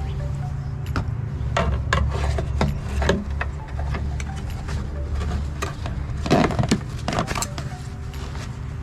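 Scattered clicks, taps and scrapes of hands and tools working on a small engine while its fuel hoses are removed, with a cluster of sharper knocks about six to seven seconds in, over a steady low hum.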